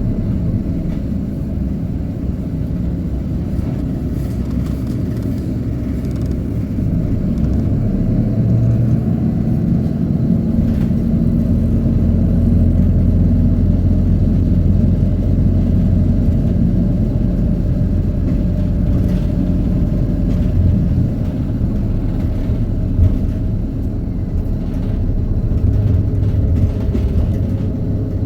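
Hino Poncho small bus heard from inside the cabin while driving: its diesel engine and drivetrain give a steady low drone that rises in pitch as the bus picks up speed, with a few light rattles from the body.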